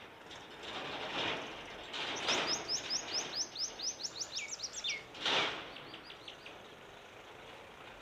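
A small songbird sings a quick run of high, sliding notes lasting about three seconds, with a couple of lower swooping notes near the end, then a few fainter notes. Short swells of rushing noise come and go, the loudest just after the run of notes.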